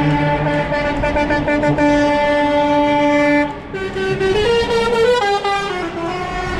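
Truck air horns blaring a long, loud held chord for about three and a half seconds, then after a short break sounding again with notes that step up and then back down.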